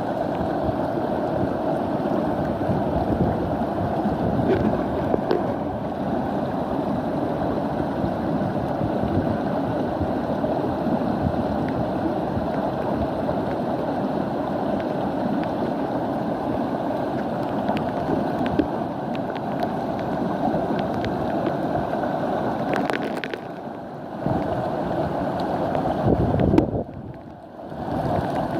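Steady rushing noise of storm wind and water. It drops away briefly twice near the end.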